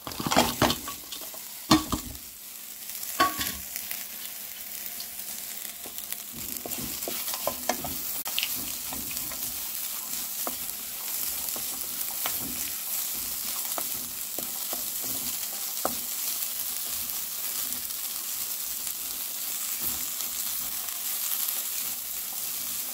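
Vegetables sizzling in hot oil in a wok while being stirred, with small scrapes and clicks throughout. In the first few seconds, fried brinjal and potato pieces are tipped in from a steel bowl with a few sharp knocks.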